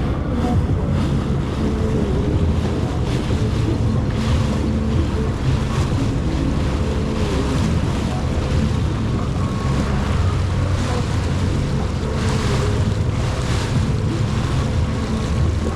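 Jet ski engine running steadily over the water, with spray splashing and wind buffeting the microphone; the splashing swells a few times.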